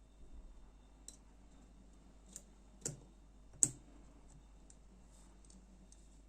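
Scattered sharp clicks and taps of a folding knife's small parts and tools being handled during disassembly: four distinct clicks in the first four seconds, the loudest a little past the middle, with a few fainter ticks after.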